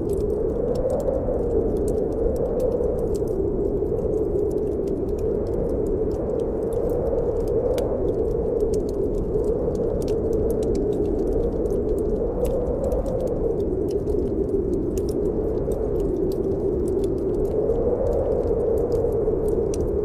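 Snowstorm wind blowing steadily, its pitch slowly rising and falling, with scattered small crackles of a wood fire burning in a fireplace.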